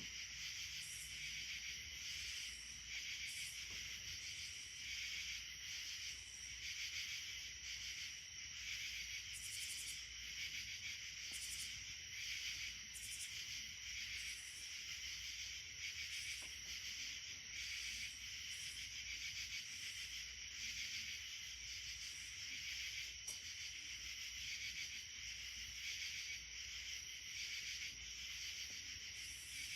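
Insect chorus: a steady, high trilling that swells and fades about once a second.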